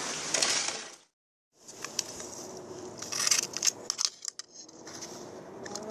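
Steady rain that cuts off about a second in, followed by a run of light clicks and rattles of small hard objects being handled.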